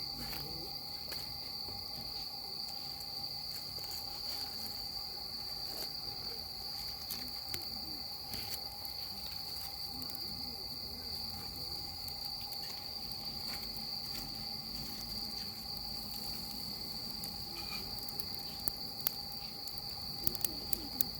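Steady high-pitched insect trill, like crickets, with scattered small crackles from a burning wood fire and a few sharper pops near the end.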